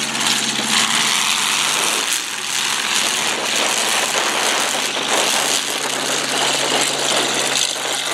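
Several demolition derby cars' engines running together.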